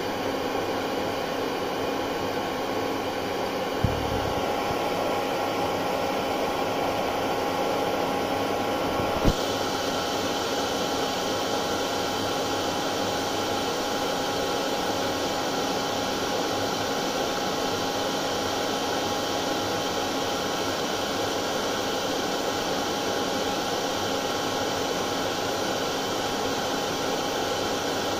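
Hair dryer running steadily: an even rush of blown air with a steady motor whine. Two brief clicks, about 4 and 9 seconds in.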